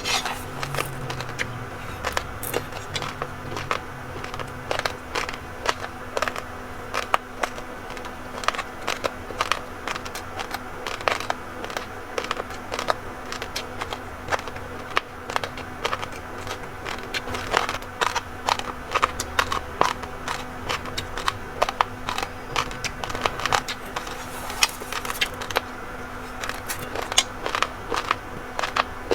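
Raw rice grains being crunched and chewed close to the microphone: a dense, irregular stream of small sharp cracks.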